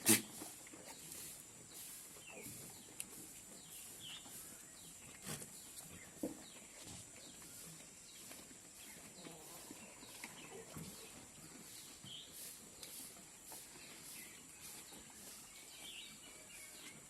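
Quiet outdoor ambience with scattered faint bird chirps, a steady thin hiss, and a few sharp knocks, the loudest right at the start.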